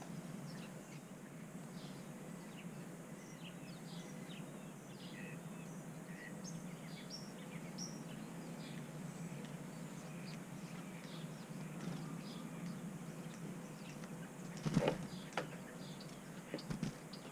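Small backyard birds chirping and calling, with many short high chirps through the whole stretch over a steady low hum. Near the end come a few louder thumps.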